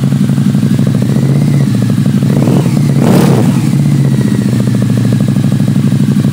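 Harley-Davidson Night Rod Special's liquid-cooled Revolution V-twin idling with an even pulse, given one quick throttle blip about three seconds in that rises and drops back to idle.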